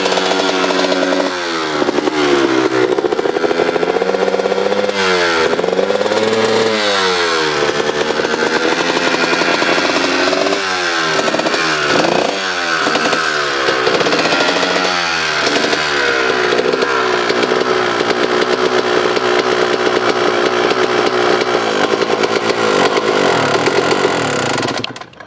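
Dirt bike engine revved hard: a run of quick throttle blips, the pitch rising and falling sharply each time, then held at a steady high speed for several seconds before cutting off suddenly near the end.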